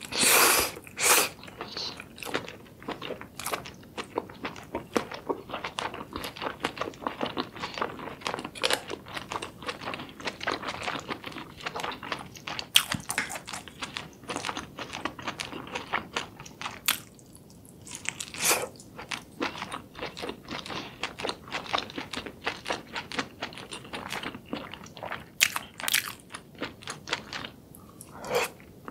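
Close-miked chewing and biting of spicy sauce-coated seafood: a dense run of small mouth clicks, with louder bites about a second in, a little past halfway, and twice near the end.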